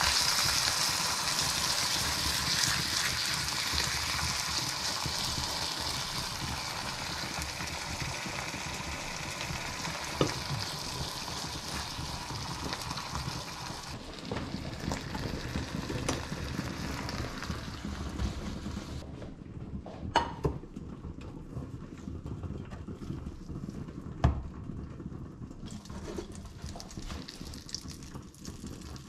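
Food sizzling in a frying pan, stirred with a spatula, the sizzle slowly fading. Over the second half it is quieter, with a few sharp knocks of pans and utensils.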